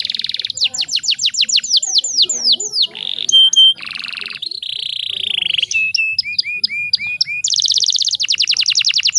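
Domestic canary singing a varied song phrase. It opens with rapid downward-sweeping trills and moves through buzzy stretches and short held whistles. A run of repeated slurred notes follows, then a fast trill again near the end.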